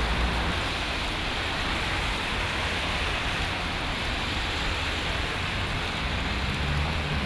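Steady rain falling on wet city pavement, with a low traffic rumble underneath that grows louder near the end.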